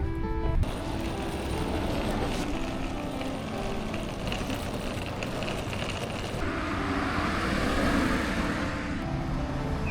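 City street ambience with motor traffic running past. The noise swells for a few seconds in the second half as a vehicle goes by.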